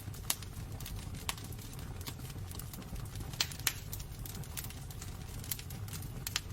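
Wood fire burning in a fireplace: irregular sharp crackles and pops over a low, steady rumble of the flames, with a few louder pops in the first four seconds.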